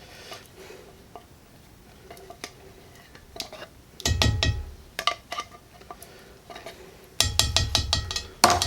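Metal cans of condensed cream of mushroom soup being knocked and shaken out into a Dutch oven: scattered light clicks, then two stretches of quick knocking with dull thumps, about four seconds in and again near the end.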